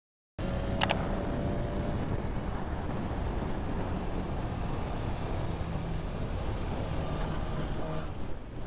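Steady road and engine rumble of a moving car, as heard through a dashcam, starting abruptly after a cut. A single sharp click about a second in.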